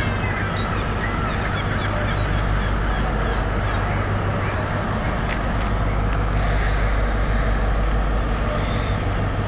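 A bird's short, high call repeating about once a second over a steady low hum of idling diesel trains.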